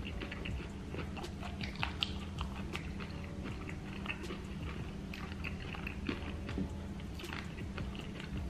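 Close-miked chewing and biting of a fried jalapeño egg roll: many short wet, clicking mouth sounds over a steady low hum.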